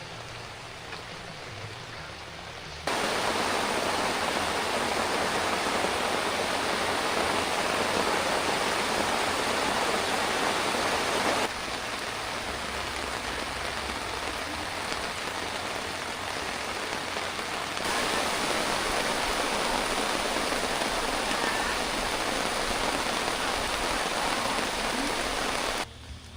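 Heavy rain falling steadily, a dense even hiss that steps abruptly louder and quieter a few times.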